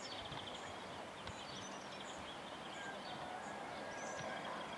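Small birds chirping and twittering, short high notes repeating over a steady outdoor background hiss.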